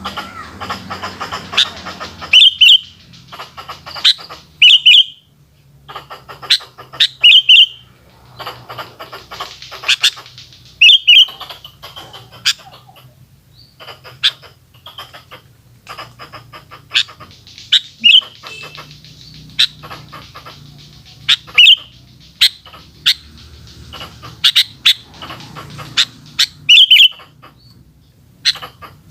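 Sooty-headed bulbul (kutilang) calling close up: a short, bright, rising-falling chirp repeated every two to three seconds, with quick sharp tweets in between.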